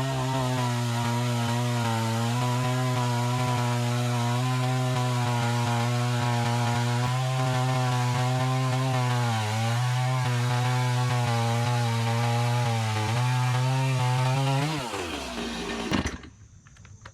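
Stihl 026 two-stroke chainsaw running at full throttle, cutting through a red oak log. The pitch is steady, with two brief dips as the chain loads up. Near the end the throttle is released and the engine note falls away, then the saw goes quiet abruptly; the owner finds the saw slow even on a new chain and means to tune the carb for more power.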